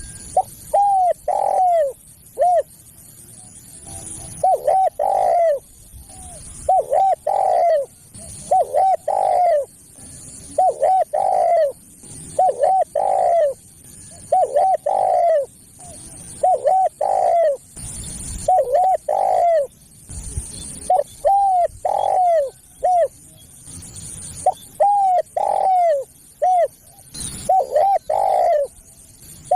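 Spotted dove (tekukur) cooing: a phrase of a few short arched coos ending in a longer one, repeated about every two seconds. It is a caller recording used to lure spotted doves.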